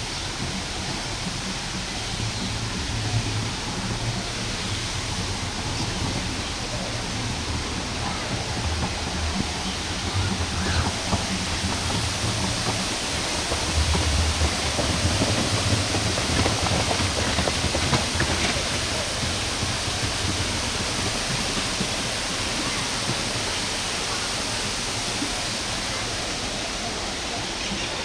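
Steady rushing noise of falling water, like a waterfall, with uneven low rumbling underneath.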